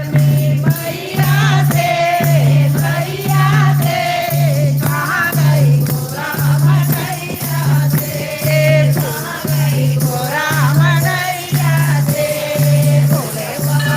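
Hindi devotional bhajan: voices sing a bending melody over a steady low beat of about one and a half pulses a second, with a jingling shaker-like percussion.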